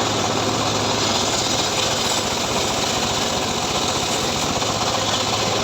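Home-built engine-powered sawmill rig (gergaji srekel) running steadily, its engine hum under a dense, even sawing noise as it works through a sengon log.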